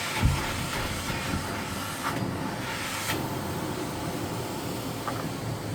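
Miele CX1 Blizzard bagless cylinder vacuum cleaner running with a steady rushing whoosh, with a low thump just after the start and a couple of brief knocks about two and three seconds in.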